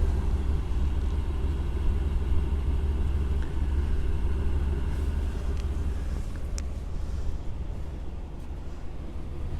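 1977 Chevrolet Impala 9C1's engine idling with a steady, low exhaust rumble through its original muffler, whisper quiet.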